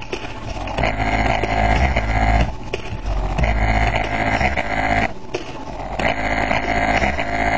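Hip-hop track playing through a Rockford Fosgate PWR-54 5.25-inch midbass speaker running free-air on a 100 W PC amplifier, bass-heavy, in repeating phrases with brief breaks.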